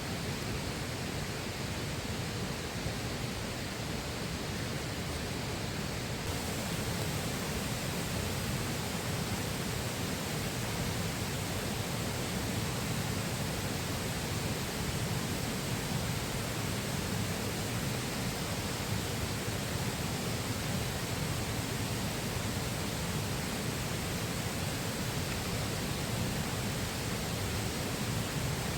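Flowing river rushing steadily, an even hiss with no distinct events; about six seconds in the upper hiss becomes fuller.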